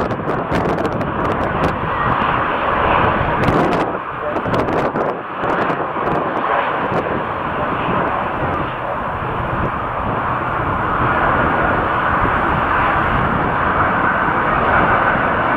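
Jet airliner engine noise, a continuous rushing roar, with wind buffeting the microphone and scattered sharp clicks in the first few seconds.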